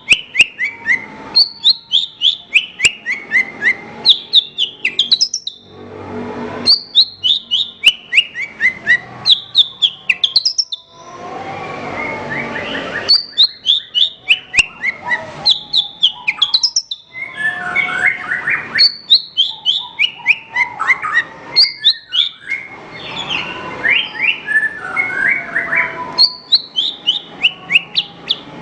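Javan bush lark (branjangan) singing: repeated phrases of quick, clear notes that step down in pitch, each run lasting a couple of seconds, with short pauses between and denser, overlapping chattering in the middle.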